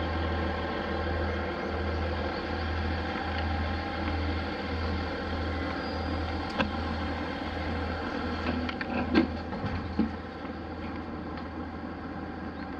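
Steady running hum of a train heard from inside the car, with a low throb pulsing about twice a second. A few sharp clicks come past the middle.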